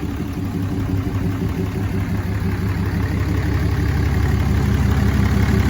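6.7-litre Cummins turbo diesel in a 2008 Dodge Ram 3500 idling steadily, growing slightly louder toward the end.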